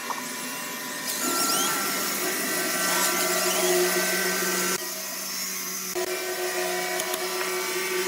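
Woodworking machinery running with a steady hum, tones and high noise. The sound changes abruptly about a second in, near the middle and again a second later, as one machine shot gives way to the next.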